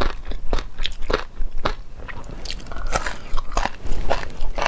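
Close-miked chewing of cooked sea anemone: short, wet, crunchy bites and squelches, about two a second, with brief pauses between.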